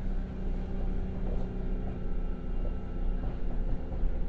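Kintetsu 1021 series electric train heard from inside the car: a steady low rumble with a steady, level hum of several tones and a few faint clicks.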